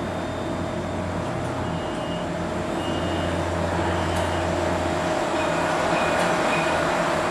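Dubai Tram running: a steady electric hum with a held tone, getting a little louder toward the end, with a few faint short high beeps.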